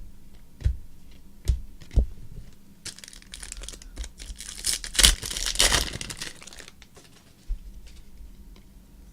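Card packaging crinkling and tearing for about three seconds near the middle, after a few light taps of cards on a table.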